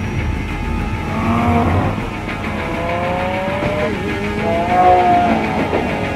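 Lamborghini Aventador V12 engine revving hard under acceleration. Its pitch sweeps upward, drops at a gear change about four seconds in, then climbs again.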